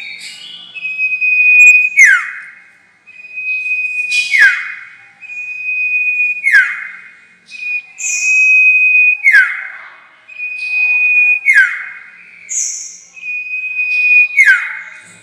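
Sirtu bird lure call: a held, high, steady whistle that ends in a sharp downward-sweeping note, repeated about six times at roughly two-second intervals, with a couple of short higher chirps between phrases.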